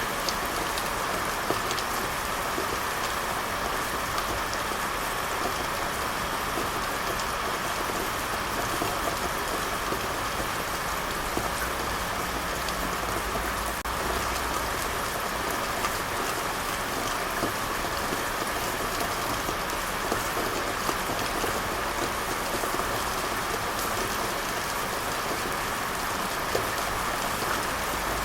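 Steady rain falling on a surface, an even hiss with scattered drop patters.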